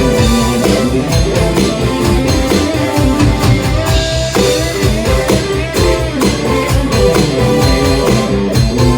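Rock band playing a song at full volume: electric guitar over a drum kit keeping a steady beat.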